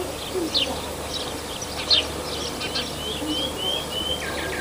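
Several small birds chirping, with a run of four short rising whistled notes near the end, over a steady faint background hiss and hum.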